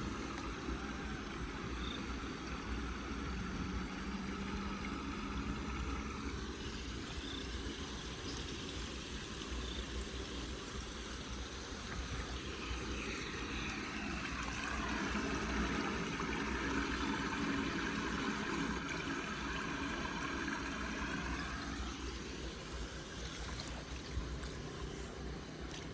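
Floodwater rushing and gurgling into a street storm drain, a steady wash of water that grows louder about halfway through.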